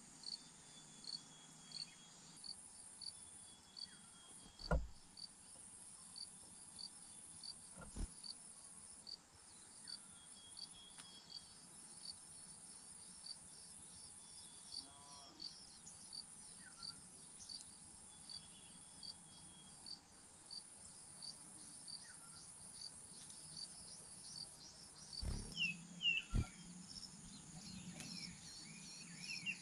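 Insects calling: a steady high buzz under a soft chirp that repeats a little more than once a second. Two sharp knocks come early on, and a few short bird chirps sound near the end.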